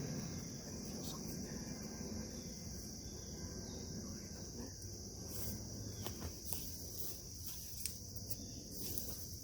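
Crickets chirping in a steady high-pitched chorus, with a few faint clicks and knocks.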